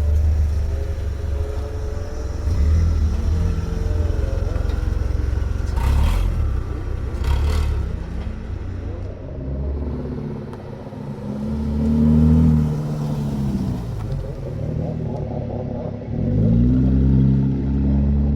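Car engines rumbling deeply as cars drive past, revving up and easing off twice in the second half, with two brief sharp noises about six and seven seconds in.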